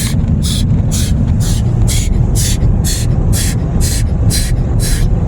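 Automatic car wash heard from inside the car: a steady low rumble, with bursts of hissing water spray sweeping across the car about twice a second.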